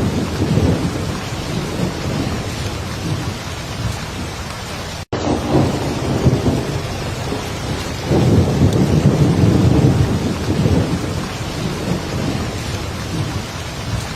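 Heavy, steady rain with low rolling thunder rumbling under it, swelling again about five seconds in and more strongly for a few seconds from about eight seconds in. The sound drops out completely for a split second just after five seconds.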